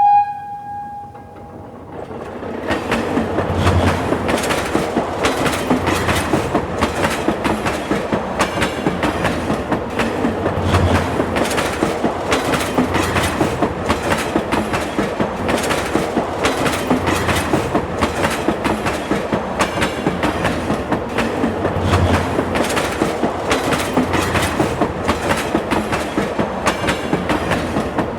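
Train horn sounding one note that ends just after the start, then a train rolling past with its wheels clattering in a steady clickety-clack rhythm over the rail joints.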